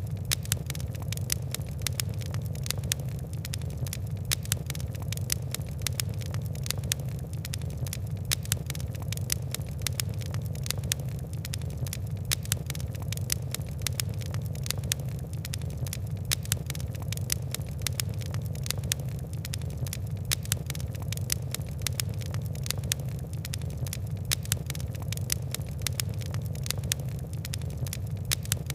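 Fire crackling steadily, with a dense run of small, irregular pops and snaps over a low, even roar of flame.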